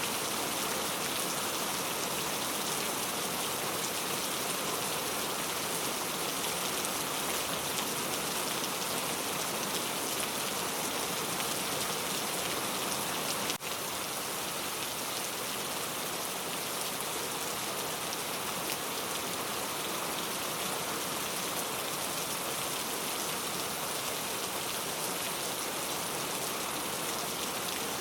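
Steady, dense rainfall, an even hiss of many drops. There is one brief click with a momentary dip in level about halfway through.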